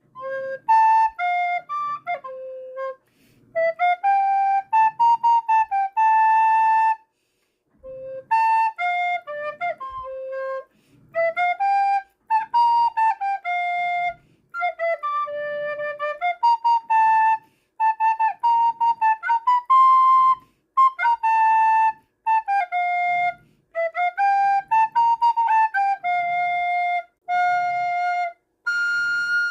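A child playing a melody on a recorder, one note at a time, in short phrases broken by brief pauses.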